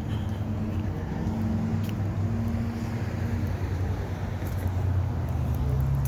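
A car engine running at low revs, a steady low hum.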